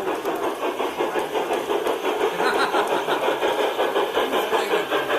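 LGB garden-scale model train running on its track, with a fast, even rhythm of about five beats a second.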